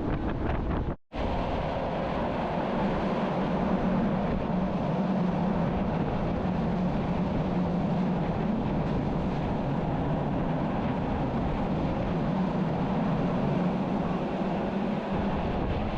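Bernina line train running, heard from an open observation carriage: a steady rumble of the moving train with a low hum and wind noise on the microphone. The sound cuts out completely for a split second about a second in, then resumes.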